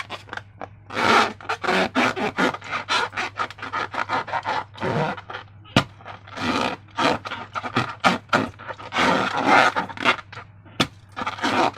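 Hands working rubber balloons and slime: a quick, irregular run of short rubbing, scraping and squishing noises, a few each second.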